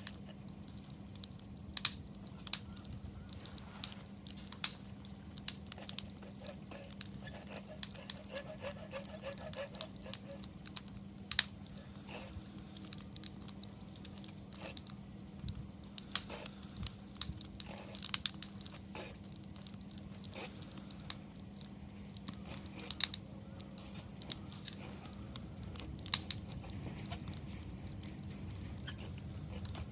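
Wood campfire crackling: irregular sharp pops and snaps of burning wood, a few louder ones scattered among many small ones, over a faint steady low hum.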